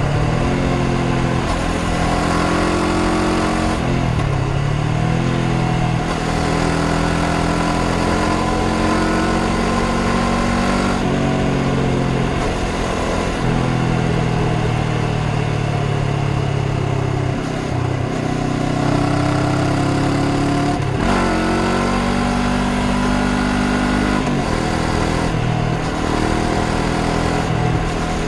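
Honda CBR500R's parallel-twin engine under way, its pitch climbing through the revs and dropping sharply several times at gear changes, with steady cruising stretches in between.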